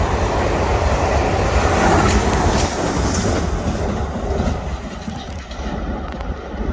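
A passing train running along the track. Its noise fades away over the last couple of seconds as it moves off.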